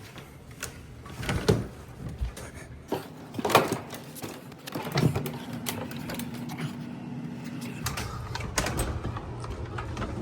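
Footsteps and irregular knocks and clatter of someone going upstairs, over the steady low hum of a running dehumidifier and central air handler.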